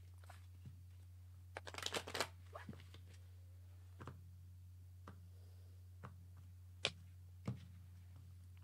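Tarot cards being handled: a quick flurry of shuffling about two seconds in, then a few single crisp card clicks spaced about a second apart, over a faint steady low hum.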